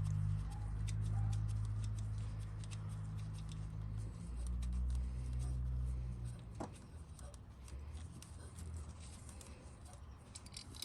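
Light clicks and taps of hand tools and plastic parts being handled, over a low steady hum that stops about six and a half seconds in.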